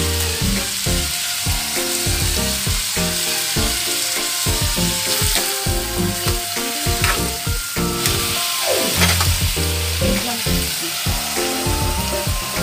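Chicken pieces and sliced onions sizzling as they fry in a metal wok, with a spatula stirring and scraping against the pan.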